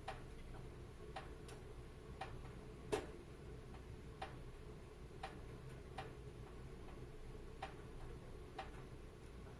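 Wood fire in a fireplace crackling: sharp pops at irregular intervals, roughly one a second, the loudest about three seconds in, over a low steady rush.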